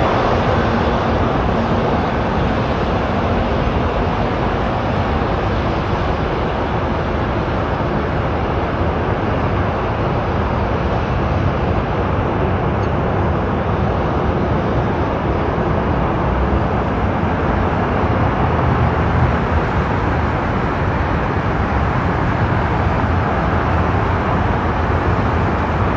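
Aircraft engine noise: a loud, steady rumble that holds level throughout.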